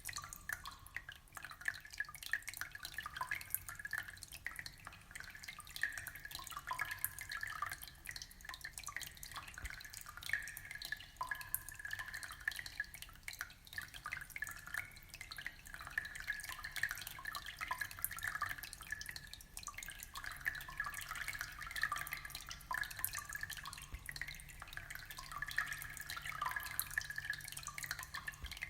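Aquarium water trickling and dripping: a steady, unbroken patter of small splashes and plinks.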